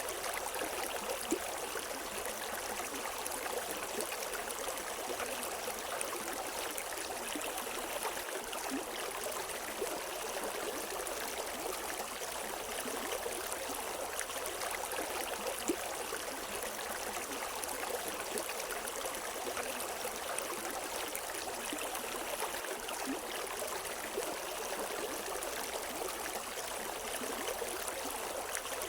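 River water running over rocks, a steady rushing and splashing with no birds or voices.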